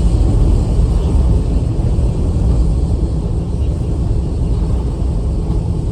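Strong typhoon-driven wind buffeting the microphone: a loud, steady, low rumble.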